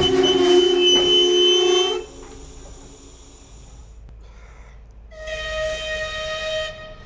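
Train horn sounding twice. The first, long blast cuts off about two seconds in. About five seconds in comes a second, shorter, higher-pitched blast.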